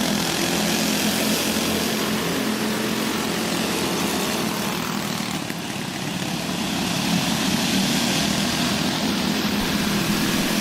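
Several small go-kart engines running as the karts race around the track. The sound dips slightly about halfway through, then rises again.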